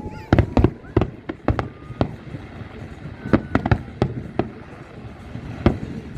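Fireworks going off: about a dozen sharp bangs at irregular intervals, over a steady background hiss.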